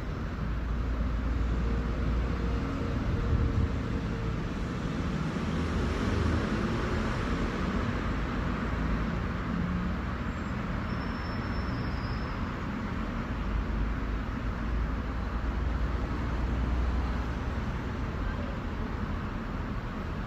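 City road traffic: a steady wash of tyre and engine noise from passing vehicles, with heavier low engine rumble swelling near the start and again about two-thirds of the way through.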